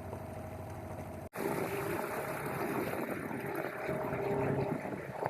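Boat engine running steadily, with water and wind noise. There is a sudden break about a second in, after which it is louder.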